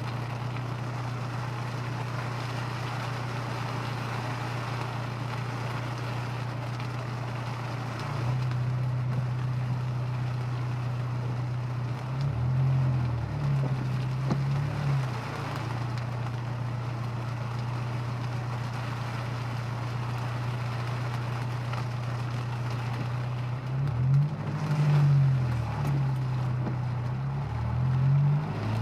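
A Honda S2000's engine drones steadily under a wash of road and rain noise, as heard from inside the car. Twice its note swings up and down for a few seconds, once about twelve seconds in and again near the end, as the engine is revved through changes of speed.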